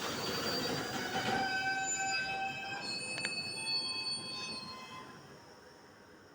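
Railway train wheels squealing on the rails, several high steady pitches over the running rumble, with a sharp click partway through; the noise fades away near the end.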